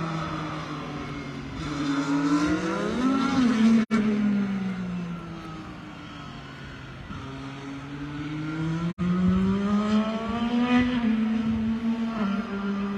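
IndyCar twin-turbo V6 hybrid race engine running on track. Its pitch falls as the car slows, with a quick rise about three seconds in, stays low for a few seconds, then climbs as it accelerates away, loudest near the start and again around ten seconds in. The sound cuts out for an instant twice.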